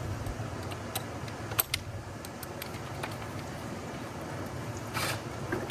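Small clicks and a light rattle of metal hardware being handled while a wall anchor is set, with a short scrape about five seconds in, over a low steady hum.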